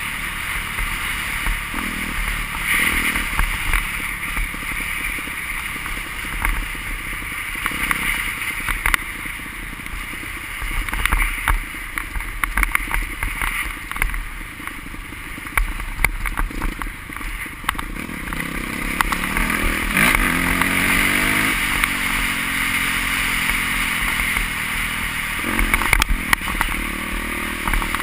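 Motocross bikes' engines revving, rising and falling in pitch as they ride past. A steady rushing hiss with crackles runs underneath.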